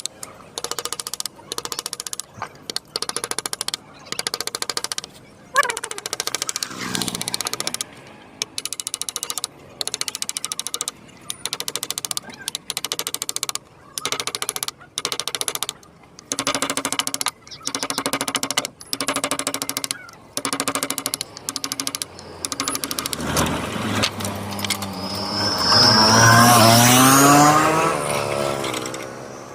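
Power carving tool hammering into wood in short bursts of rapid strokes, each about a second long, with brief pauses between. Near the end a louder sound with a rising pitch comes over it.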